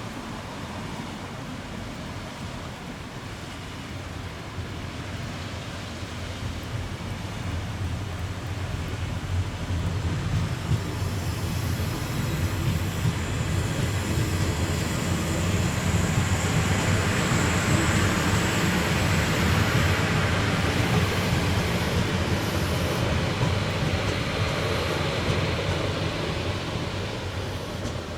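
A train passing slowly on the rails under a heavy-rain speed restriction, its rumble growing louder toward the middle as it draws level, with a faint high whine, then easing off near the end.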